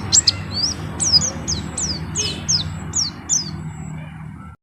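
A white-eye (pleci) singing a run of short, high, down-slurred notes, about three a second, over a low steady hum; the sound cuts off suddenly near the end.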